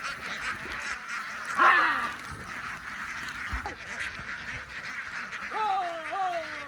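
A large flock of ducks quacking and chattering together, with a louder burst of calls about two seconds in and a pair of drawn-out falling calls near the end.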